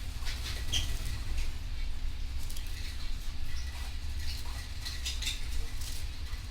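Canaries making short, scattered chirps and scratchy clicks, with no full song, over a steady low rumble.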